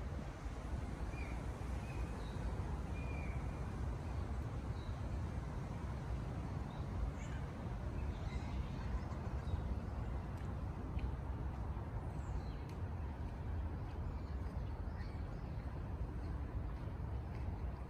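Outdoor birdsong: short, faint bird calls scattered throughout over a steady low rumble.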